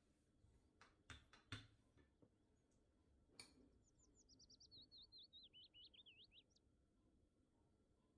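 A bird sings one quick warbling phrase of rapid, fast-bending notes that step down in pitch over about two and a half seconds, starting about four seconds in. Before it, a few light knocks on the table.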